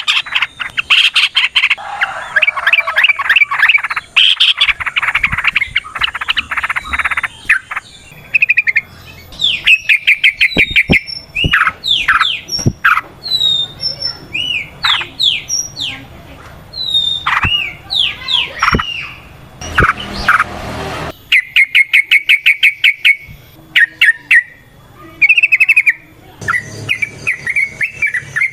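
Yellow-vented bulbul song: fast chattering trills broken up by clear, looping whistled notes, in long unbroken runs. A short burst of noise comes around twenty seconds in.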